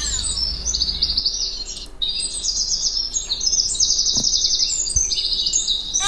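Small birds chirping in a series of rapid, buzzy, high-pitched trills, one after another with short gaps.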